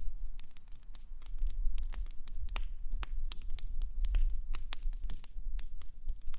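Wood fire crackling: irregular sharp pops and snaps scattered over a low rumble of burning.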